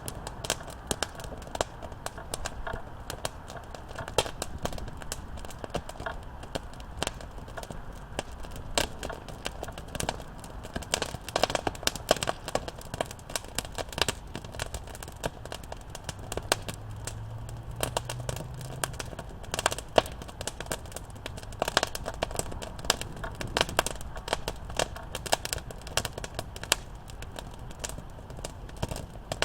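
Wood campfire crackling, with many irregular sharp pops and snaps over a steady low rush of the burning fire.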